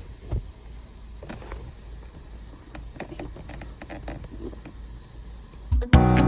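Scattered light knocks and clicks of plastic interior trim being handled and slid into place, with one sharper knock just after the start. Loud background music with a beat starts near the end.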